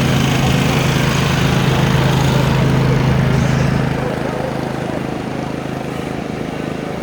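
An engine running steadily at idle, louder for about the first four seconds and then settling a little lower.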